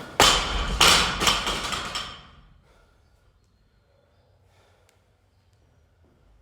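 Gym equipment dropped on the floor: several loud thuds and clatter in the first two and a half seconds.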